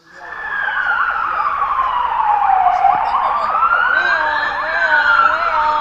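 Police siren wailing, starting suddenly: its pitch falls slowly, rises again and falls, while a second siren tone with a quick wavering warble joins about four seconds in.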